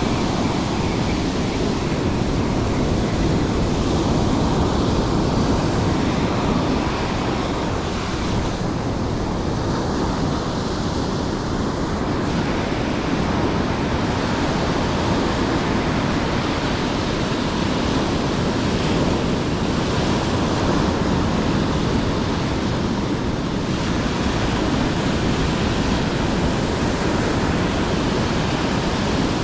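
Steady rush of surf breaking on the shore, mixed with wind buffeting the microphone.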